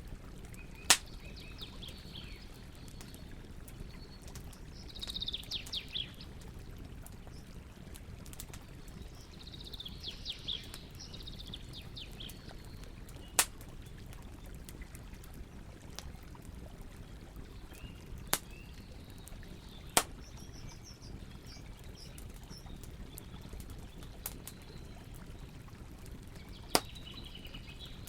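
Campfire burning with a steady low hiss and crackle, broken by about five sharp pops of burning wood spread through. Birds chirp in short runs several times behind it.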